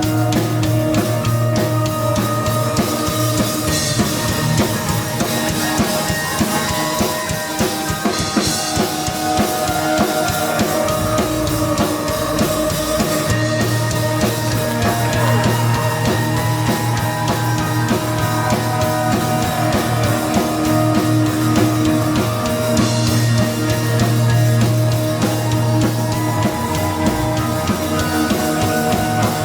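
Live heavy rock band playing loudly: full drum kit with bass drum, guitar and a moving bass line, keeping a continuous dense wall of sound.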